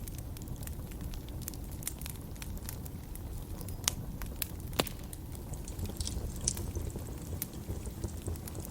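Wood fire in a fireplace crackling: a steady low rumble of flames with many sharp pops scattered throughout, two louder ones about four and five seconds in.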